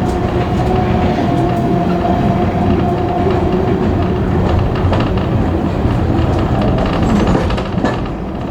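Passenger railway carriage running along the track: a steady, loud rumble of wheels and running gear. A faint steady tone rides over it and fades out about three seconds in.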